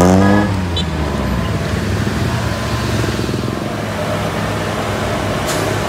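Road vehicle engine under load: a rising engine note ends about half a second in, then a steady low engine rumble runs on.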